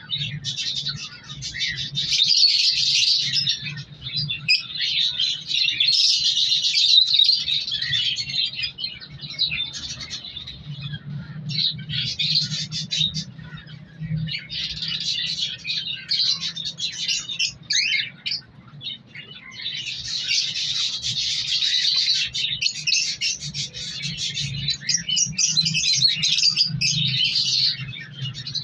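A flock of caged birds chirping and chattering without a break, the calls swelling and thinning in waves, over a faint low steady hum.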